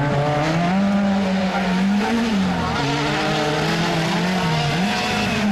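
Honda Civic rally car's four-cylinder engine running hard through a muddy gravel corner. Its pitch holds high, dips about halfway through as the driver lifts or shifts, then climbs again near the end.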